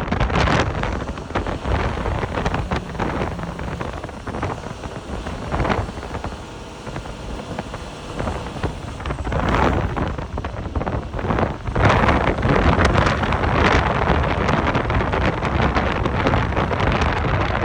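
Wind buffeting the microphone over a low vehicle rumble, easing off midway and swelling again in gusts in the second half.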